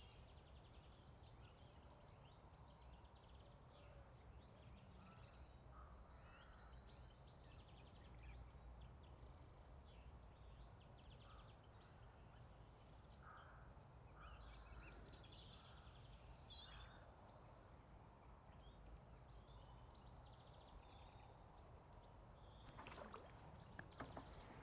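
Near silence: faint birdsong, scattered chirps and short phrases, over a low steady outdoor rumble.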